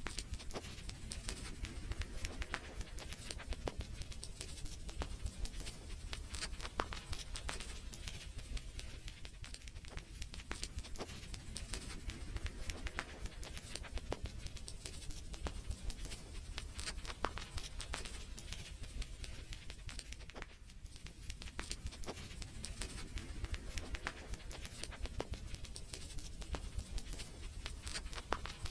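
Wood fire crackling: many small irregular pops and snaps over a steady low rumble.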